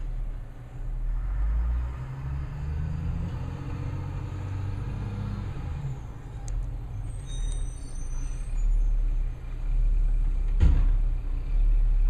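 Garbage truck's engine running with a low rumble, revving up for a few seconds, then faint high squeals and one sharp clunk near the end.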